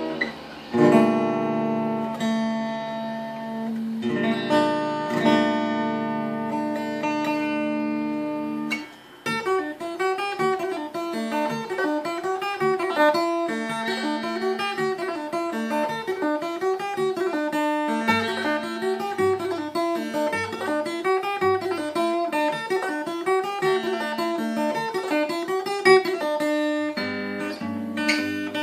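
Seagull Entourage Mini Jumbo Rustic acoustic guitar, tuned down a half step, played solo: ringing chords for the first several seconds, then after a brief pause about nine seconds in, a repeating fingerpicked pattern of rising and falling notes.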